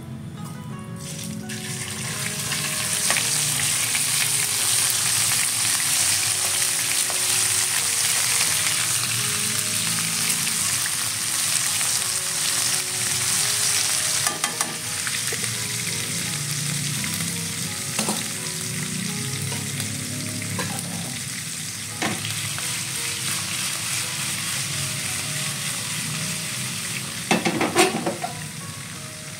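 Grated galangal spice paste frying in hot oil in a wok: a loud, steady sizzle that swells up about a second in as the paste goes into the oil. A few sharp knocks of the utensil stirring it come near the middle, with a short cluster near the end.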